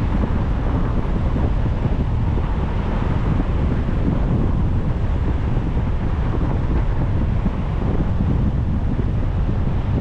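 Steady wind buffeting and road rumble from a car driving along at speed, with no gear changes or other events.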